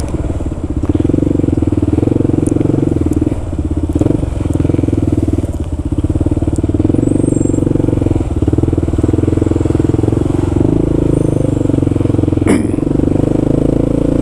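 Kawasaki KLR650's single-cylinder engine running at low riding speed, the throttle easing off and coming back on a few times. There is one sharp click about twelve seconds in.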